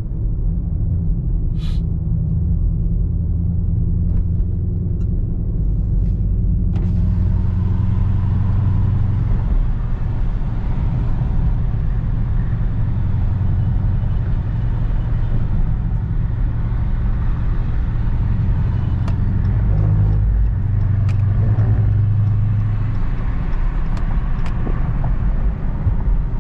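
Car driving on the highway, heard from inside: a steady low rumble of engine and road noise, with a wider hiss of tyre and wind noise joining about seven seconds in.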